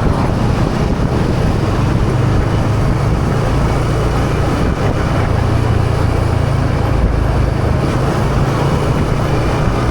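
Yamaha PG-1's small single-cylinder four-stroke engine running steadily while the motorcycle is ridden, with no change in pitch or level.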